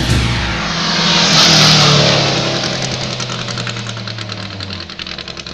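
A racing car's engine passing close at speed, loudest about a second and a half in, then its note dropping and fading as it drives away up the hill.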